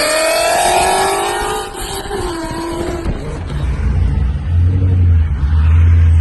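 2018 Ford Shelby GT350's 5.2-litre flat-plane-crank V8 through a Corsa X-pipe and catless long-tube headers. The exhaust note climbs in pitch under acceleration for the first couple of seconds, then drops and settles into a deep, steady drone.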